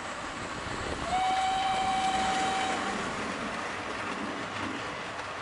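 A train running with a steady clatter, and a whistle blowing one steady note for nearly two seconds, starting about a second in.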